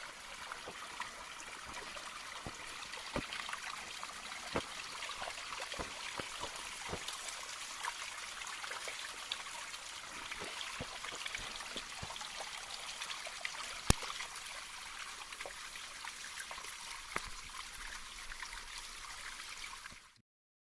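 Shallow mountain stream trickling over stones: a steady watery hiss with scattered small clicks and one sharp tick about fourteen seconds in. It cuts off suddenly near the end.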